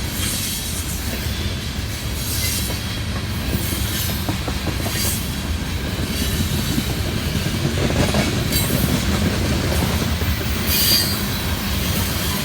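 Freight train of oil tank cars rolling past in a steady rumble of wheels on rail, with short bursts of wheel squeal and clacking every second or two.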